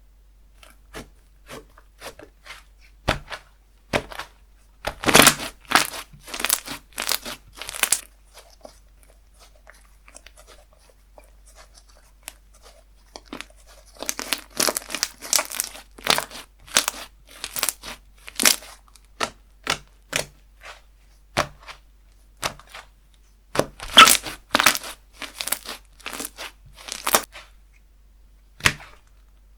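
Hands playing with slime: stretching, squeezing and poking it, giving irregular sticky clicks, pops and crackles in bursts, with a quieter stretch near the middle.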